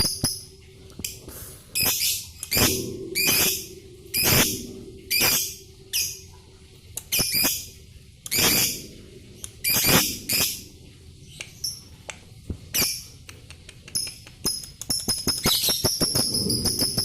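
Lovebird calling: a series of short, harsh squawks, roughly one a second, with rapid high twittering chatter near the start and toward the end.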